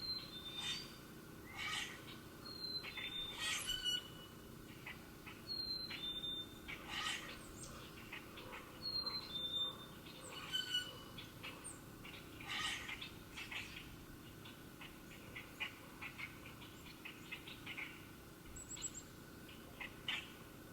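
Birds calling outdoors: a clear two-note whistle, the second note lower, repeats every few seconds, among many short sharp chips, with a quick little trill near the end.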